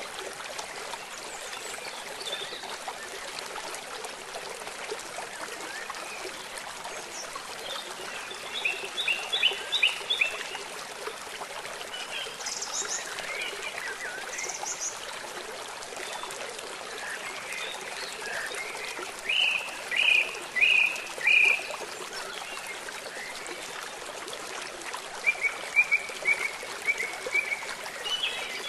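Steady hiss of running water with birds chirping over it: a quick run of chirps about a third of the way in, two short high calls soon after, four loud chirps past the middle, and another run of chirps near the end.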